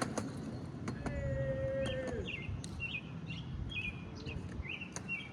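A bird chirping, short repeated calls about two a second in the second half, over a steady low rumble.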